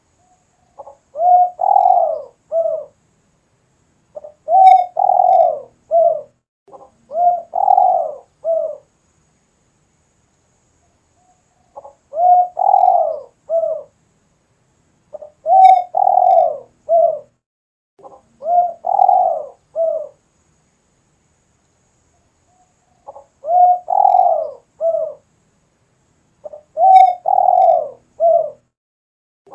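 Spotted dove cooing steadily and insistently: repeated phrases of three or four low coos, each phrase about two seconds long, given in sets of three with a few seconds' pause between sets.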